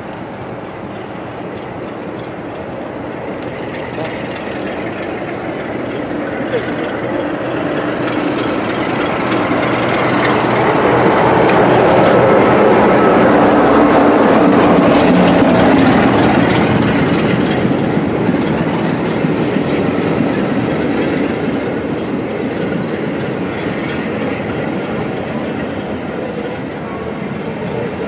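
Locomotive-hauled passenger train running through a station platform. The sound builds steadily, is loudest about halfway through as the front of the train passes, then eases off as the coaches roll by on the rails.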